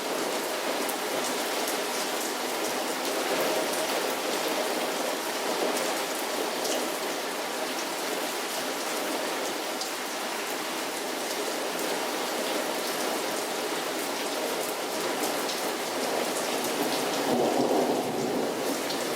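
Heavy rain falling steadily, with scattered sharp drop ticks and a brief louder swell near the end.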